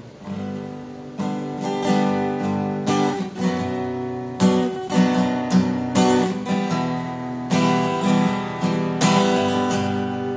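Acoustic guitar played as rhythm guitar with a pick: strummed chords in a steady rhythm, the chords changing every second or two.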